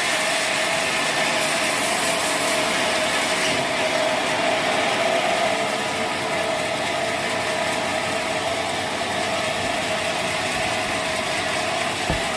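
Sawmill machinery running steadily: a continuous mechanical rush with a steady tone through it, and a brief low thump near the end.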